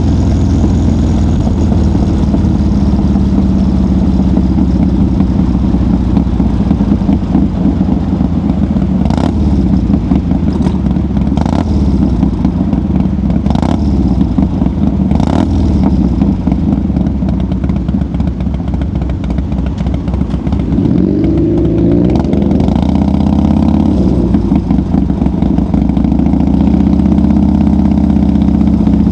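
1990 Harley-Davidson FXR's V-twin engine running under way, with four or five sharp clicks near the middle and the engine pitch rising and falling a little past two-thirds of the way in before it settles steady again.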